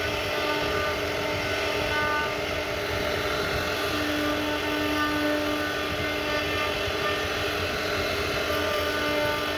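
CNC router spindle running steadily as it carves a wooden bed headboard: a constant machine whine over an even cutting noise.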